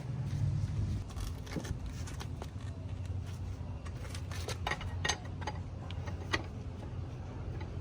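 Irregular metallic clinks of a lug wrench on the wheel's lug nuts as they are loosened, over a steady low hum.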